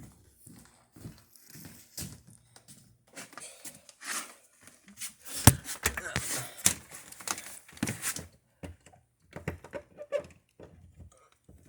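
Clicks, knocks and rustling from handling a box fan and its power plug, with one sharp knock about five and a half seconds in. There is no motor hum: the fan's motor is burned out and does not run.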